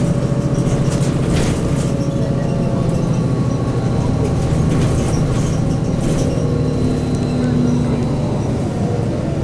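A 2002 Blue Bird CS transit bus's Cummins ISC diesel engine running at a steady pitch, with a few short rattles.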